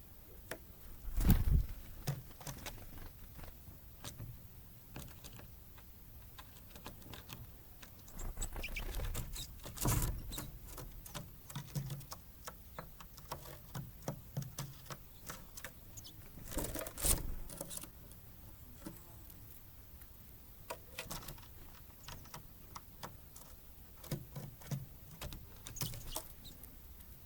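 Great tits and blue tits at a feeder: scattered light taps and clicks of pecking and perching, with three louder flurries, about a second in, around ten seconds and around seventeen seconds.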